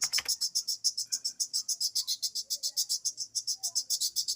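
Insect chirring, a steady rapid high-pitched pulsing at about ten pulses a second, typical of a cricket.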